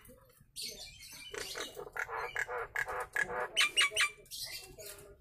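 Jalak nias, a starling-family songbird, giving a rapid run of harsh, chattering calls in short bursts, starting about half a second in.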